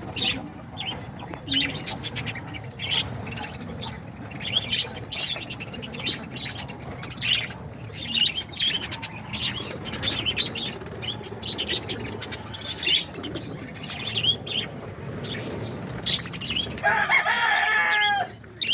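A flock of small cage parrots (budgerigars, lovebirds and cockatiels) chirping and chattering continuously in short, irregular calls, with a louder, longer call near the end.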